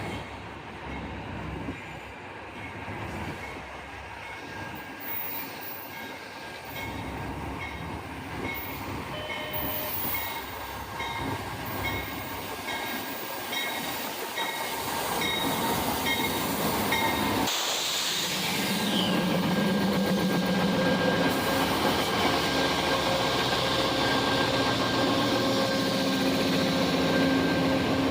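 A train approaching and running past, growing steadily louder. A repeated ringing comes about once a second partway in, and the rail noise and a steady low tone from the locomotive take over in the second half.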